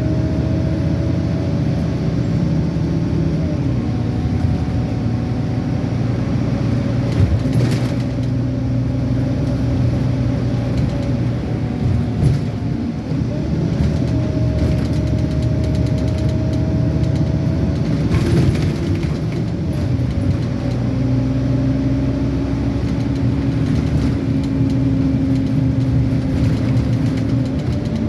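Scania N230UD double-decker bus's diesel engine running under way, heard on board, its pitch rising and falling repeatedly through the gears, with a few short knocks or rattles.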